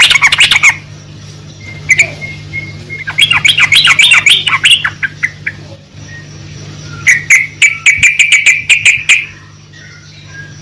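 Yellow-vented bulbul (trucukan) singing: loud phrases of rapid, chattering notes about two seconds long, one ending just after the start and two more about three and seven seconds in, over a steady low hum.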